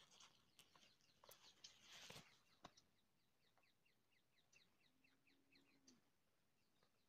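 Faint scraping and a few sharp clicks over the first two seconds, then a quick run of faint high chirps from small birds, several a second, lasting about three seconds.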